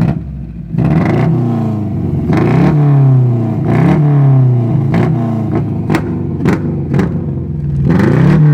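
Honda B16A2 1.6-litre DOHC VTEC four-cylinder on CBR954 individual throttle bodies, revved again and again in short blips that rise and fall in pitch, with a few sharp cracks in the second half. The engine is misfiring and not running right since the throttle bodies went on.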